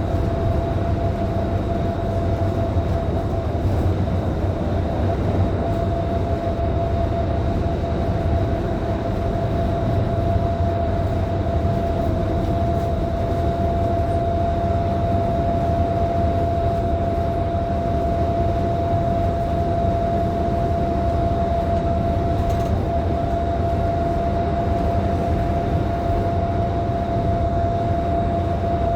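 Inside a Scania K310IB bus cruising at a steady speed: a constant low engine and road rumble with a steady whine over it, unchanging throughout.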